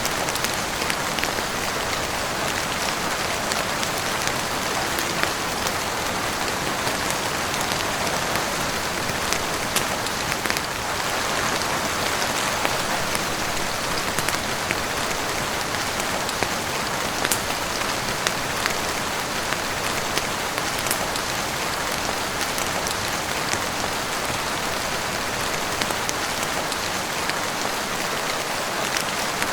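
Heavy rain falling steadily on a roof and windows, a dense even hiss scattered with many small sharp drop ticks.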